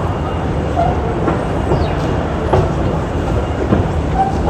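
Busy railway station ambience: a steady low rumble with faint distant voices and a few light clicks.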